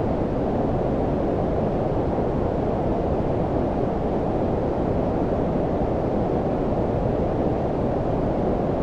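Steady low-pitched noise, white noise filtered so that it sits mostly below about 1 kHz, giving an even, deep hiss with no changes.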